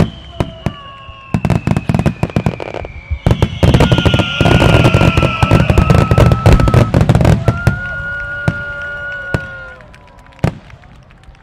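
Wide starmine fireworks barrage: a rapid string of bursts and crackle, densest and loudest from about four to seven seconds in, thinning out near the end. Long held tones sound over the bursts.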